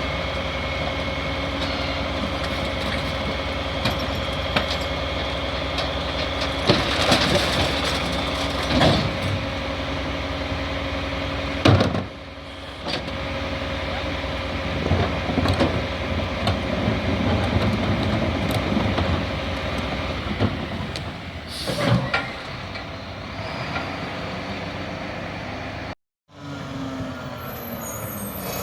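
Garbage truck engine running steadily, with several clanks and knocks, one sharp bang about twelve seconds in; the sound drops out for a moment near the end.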